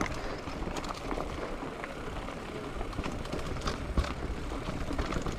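Steady wind rumble on the microphone, with scattered light clicks and knocks from the bicycle or gear.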